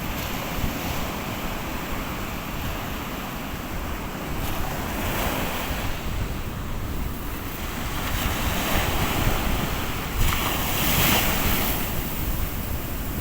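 Sea surf washing onto a beach, with wind rumbling on the microphone; the wash swells twice, about five seconds in and again near the end.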